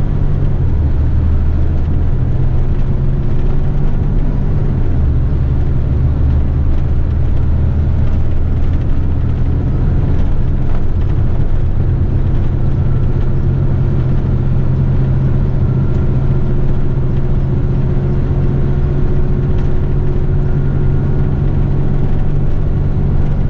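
Eight-wheeler twin-steer heavy rigid truck's diesel engine running, a steady low drone with road rumble.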